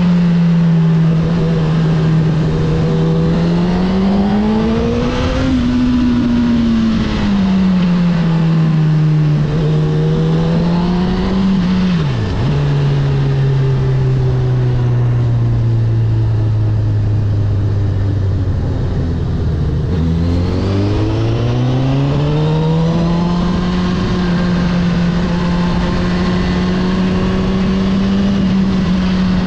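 Honda CB1000R's inline-four engine under way, its note rising and falling with the throttle. About twelve seconds in the note dips briefly and then holds lower for several seconds before climbing again near twenty seconds.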